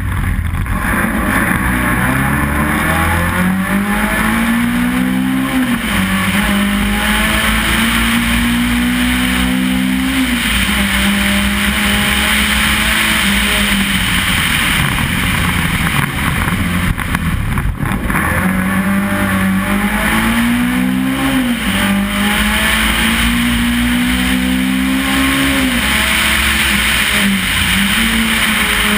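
Race car engine heard onboard, pulling hard through the gears: its pitch climbs and drops sharply at each upshift, two upshifts in a row, then it eases off and pulls through two more upshifts. A steady rushing noise runs beneath it.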